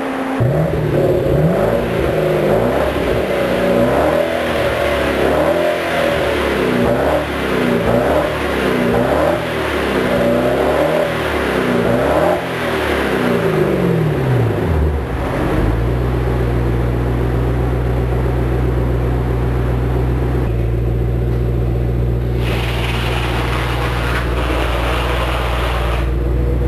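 Maserati 3200GT's twin-turbo V8 running through a Bertocchi aftermarket exhaust, blipped repeatedly so the revs rise and fall about every second and a half. About fifteen seconds in it drops back to a steady idle.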